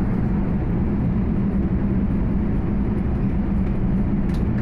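Aircraft cabin noise in flight: a steady drone of engines and airflow with a constant low hum.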